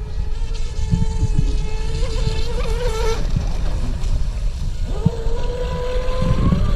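Pro Boat UL-19 RC hydroplane's brushless motor whining at speed: a high-pitched whine that drops away about three seconds in, returns about two seconds later and climbs in pitch near the end. A steady low rumble sits underneath.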